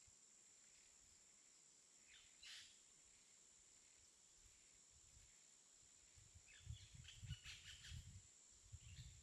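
Near silence with faint bird chirps: one call about two seconds in and a cluster of short chirps in the second half, with a faint low rumble under them.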